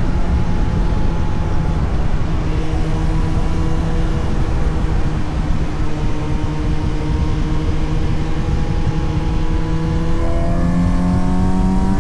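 Suzuki GSX-S750 inline-four motorcycle engine running at steady part throttle. About ten seconds in, its pitch steps up and climbs as the bike accelerates. Wind and road rush sits underneath.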